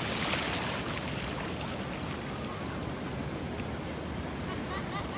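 Ocean surf washing onto the beach as a steady, even rush of noise.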